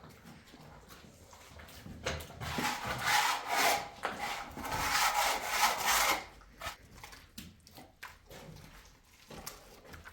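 Rough scraping or rubbing noise, starting about two seconds in and lasting about four seconds with a brief break in the middle, followed by a few light knocks.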